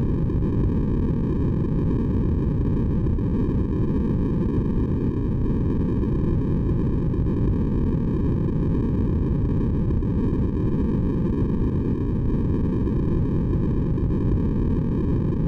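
Steady electronic white noise for sleep, heavy in the low end so it sounds like a deep, even hiss, unchanging throughout.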